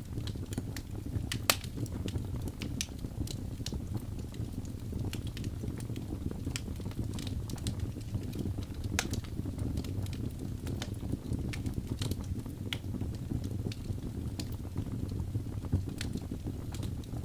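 Wood fire burning in a fireplace: a steady low rumble of flames with irregular sharp crackles and pops from the logs, one louder pop about a second and a half in.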